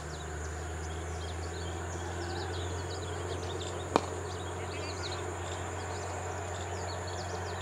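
Birds chirping over a steady low hum, with a single sharp crack about four seconds in.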